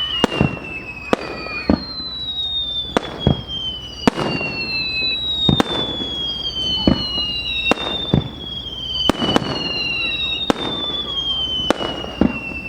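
Aerial fireworks display: overlapping whistling shells, each whistle falling in pitch over two to three seconds, among sharp bangs of shells bursting about once a second.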